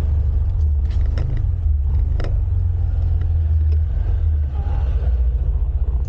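Motorcycle ride audio: a steady, loud low rumble, with a few faint brief clicks about one and two seconds in.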